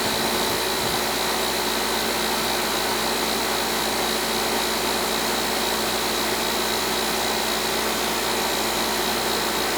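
Coleman central air-conditioning condensing unit running steadily, compressor and condenser fan giving an even whoosh with a steady high whine over it, while the system's refrigerant charge is being adjusted.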